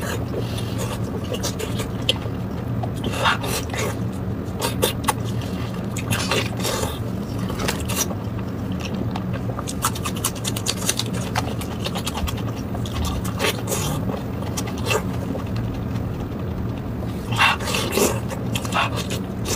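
Close-miked mouth sounds of someone eating red-braised pork belly: wet chewing, lip smacks and scattered clicks, over a steady low hum.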